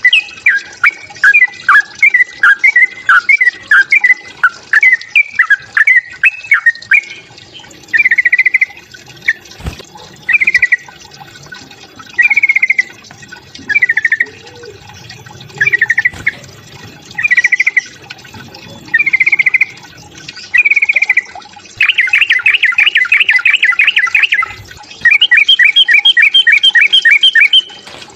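Yellow-vented bulbul (trucukan) giving its agitated fighting calls. A rapid chatter of slurred notes gives way to short trilled phrases about every second and a half, then one long loud trill and a fast run of repeated notes near the end.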